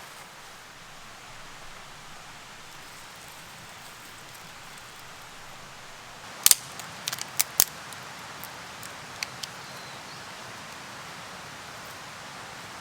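Steady rain falling, with a quick cluster of sharp clicks or snaps about halfway through and a few fainter ones after.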